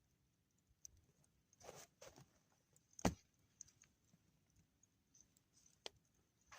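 Near silence broken by a few faint clicks and short rustles, with one sharp crack about three seconds in.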